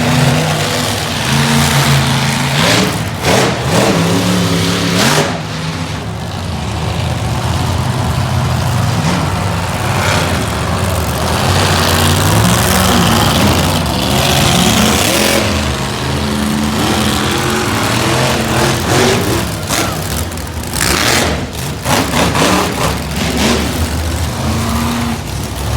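Monster truck engines running and revving, their pitch rising and falling repeatedly.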